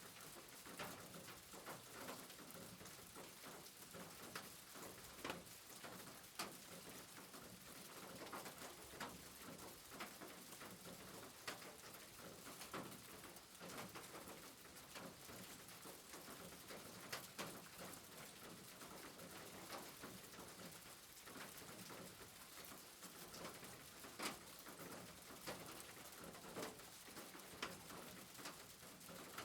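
Faint, steady rain: a soft hiss with irregular drips and taps.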